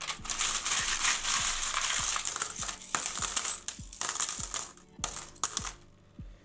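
A hand rummaging through a tub of loose coins: a dense jingling and clinking of metal coins for about four and a half seconds, a brief second burst shortly after, then it stops.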